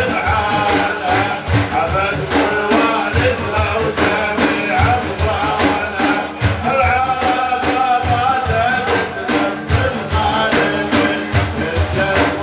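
Sufi dhikr music: frame drums beating a steady rhythm under a wavering, drawn-out vocal melody, between lines of praise poetry.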